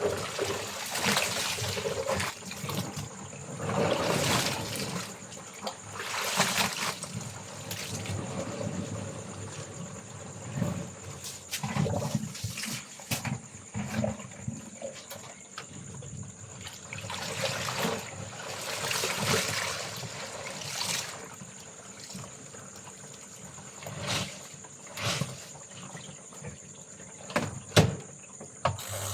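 Water sloshing and pouring in repeated surges every few seconds as laundry is washed, with scattered clicks and knocks. A steady high insect drone runs underneath.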